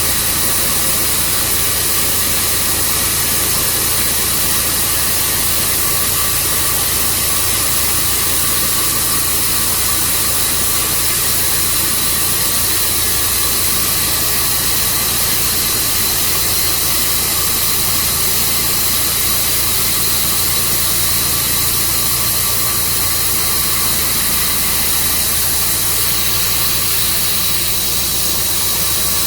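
Tru Cut sawmill running steadily: an engine note under a strong, even hiss that does not change.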